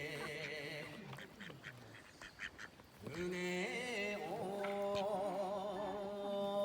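A singing voice with a wide, wavering vibrato. It drops away for about two seconds of soft clicks, then comes back about three seconds in over a steady low held drone.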